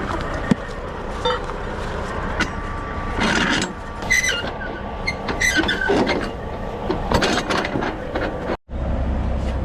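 Steady low rumble of a heavy vehicle running, with scattered clinks and short squeaks over it. The sound drops out for a moment near the end, then returns with a louder, steadier rumble.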